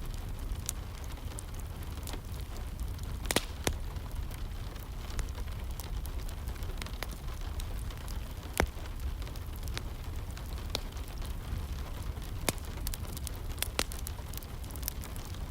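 Wood fire crackling in a fireplace, with scattered sharp pops (the loudest about three seconds in and again near the middle), over a steady hiss of rain and a low rumble.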